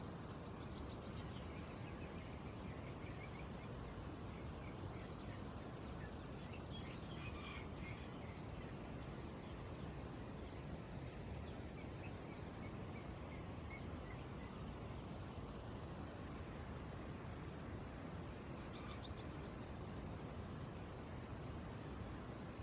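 Caged birds chirping and twittering over steady background noise and a continuous high-pitched shrill, with a few louder chirps near the end.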